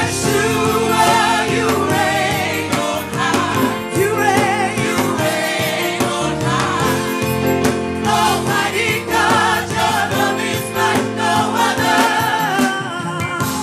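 Live gospel worship music: several voices singing with wavering vibrato over a sustained instrumental accompaniment.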